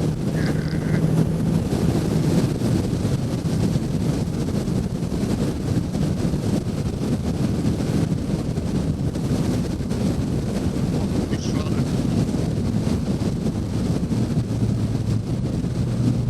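Wind rushing over a helmet-mounted microphone on a moving motorcycle, with the engine's steady note underneath. The engine note sits a little lower near the end.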